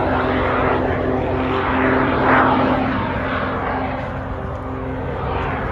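Jet Pitts biplane's Lycoming piston engine and propeller running, a steady drone that swells louder about two seconds in.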